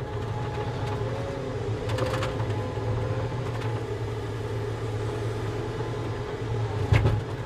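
Tracked Volvo skid steer's diesel engine running steadily while the machine is driven over freshly filled ground to compact it with its tracks. A single sharp knock comes about seven seconds in.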